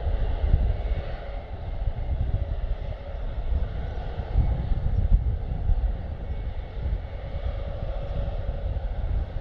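Airbus A400M's four turboprop engines running as it taxis: a steady hum over a low rumble that swells and eases.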